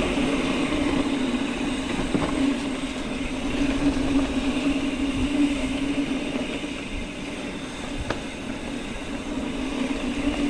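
Mountain bike rolling along a dirt trail: steady tyre and wind noise with a continuous low hum and one sharp knock about eight seconds in.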